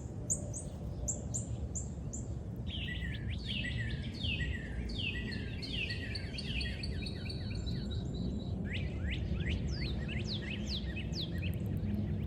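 Small wild birds singing and calling: a run of short high notes at about three a second, then from about three seconds in many overlapping downward-sliding whistled notes. A steady low rumble runs underneath.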